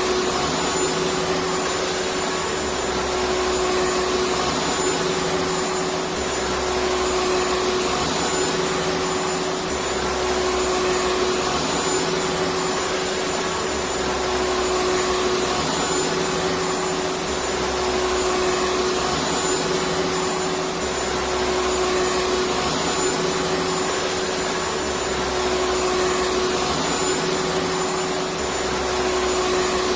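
Vacuum cleaner running steadily: a constant motor whine over rushing air, with a faint low pulsing every few seconds.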